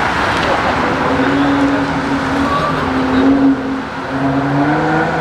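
Car engine running at steady, raised revs from about a second in, its pitch creeping slowly up, over a loud, steady noisy background.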